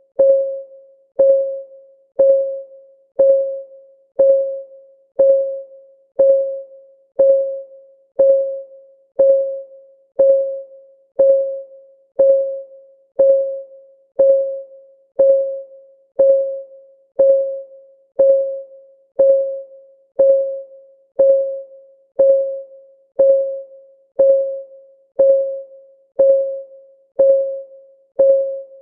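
Countdown timer's clock ticking: a short pitched tick about once a second, each one a single tone that dies away quickly.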